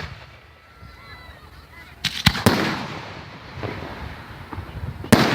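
Aerial fireworks shells bursting: a quick run of three sharp bangs about two seconds in, trailing off in a rumbling echo, then another bang near the end.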